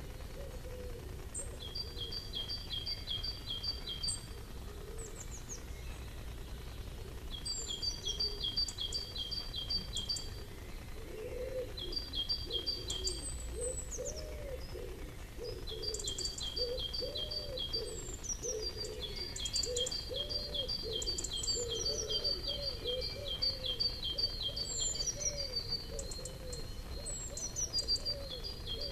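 Garden birds singing: phrases of rapid, evenly spaced high notes, each phrase lasting a couple of seconds and repeated again and again, with short higher falling notes among them. From about a third of the way in, a lower call repeats about once a second underneath.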